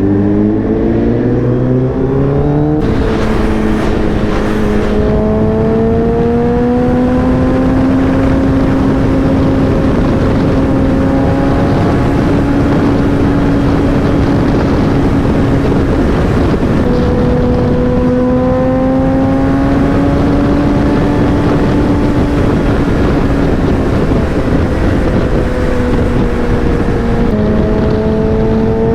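Motorcycle engine running under way during a ride, its pitch climbing slowly and dropping back three times (near the start, about halfway and near the end), with a steady rush of wind noise.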